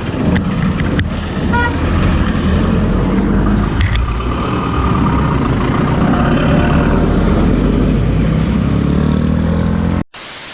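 Motorcycle riding along a road, engine running under wind and road noise, with a short horn toot about two seconds in. The sound cuts off abruptly near the end.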